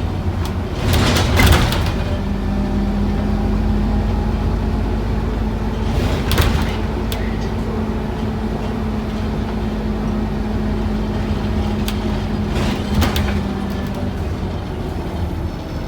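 Scania N230UD OmniCity bus's diesel engine running, heard from inside the bus as a steady drone with a steady hum through most of it. A few short clatters come about a second in, around six seconds, and near the end.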